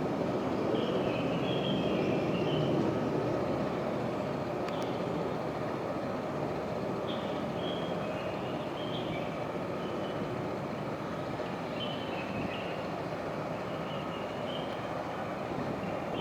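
Jet noise from two military fighter jets taking off, a steady dense rumble that slowly fades as they climb away. Short high chirps sound over it now and then.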